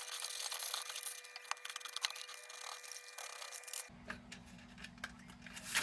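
Hand scraping and rubbing on a kerosene heater's parts, a dense scratchy noise that stops abruptly about four seconds in. After that comes a quieter steady low hum with scattered clicks, and a loud knock at the very end.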